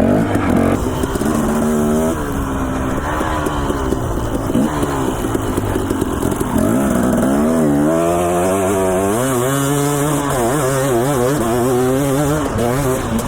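Dirt bike engine being ridden, revving up and dropping back over and over as the throttle is worked and gears change.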